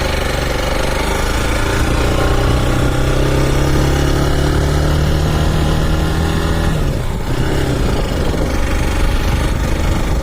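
Motorcycle engine running steadily while riding, with a brief change in the engine note about seven seconds in before it settles again.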